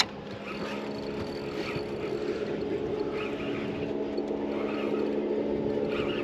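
Boat motor running steadily, a droning hum that grows slowly louder.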